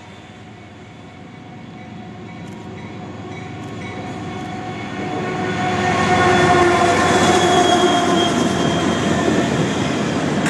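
CSX freight train approaching and passing, its diesel locomotive and rail cars growing steadily louder over about six seconds, then staying loud. A steady whine of several tones rides over the rumble of the cars, dipping slightly in pitch as it goes by.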